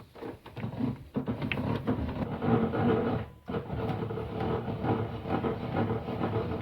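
DeWalt table saw running and cutting wood: a steady motor hum under dense cutting noise, with a brief drop about halfway through.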